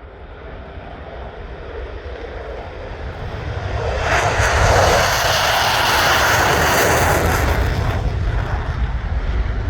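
Jet aircraft flying past: the engine noise builds over the first few seconds and is loudest from about four to eight seconds in, with a strong hiss, then the hiss drops away suddenly and a low rumble remains.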